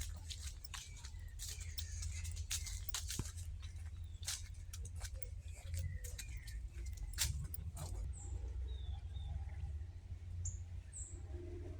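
Small birds give short, high chirps that slide downward, a few of them scattered through the last few seconds. Through the first two-thirds a run of sharp crackling clicks sits over them, and a steady low rumble runs underneath.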